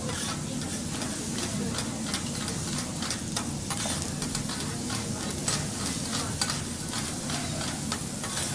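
Food sizzling on a teppanyaki griddle, with a steady frying hiss and frequent sharp clicks and scrapes of metal spatulas on the hot plate.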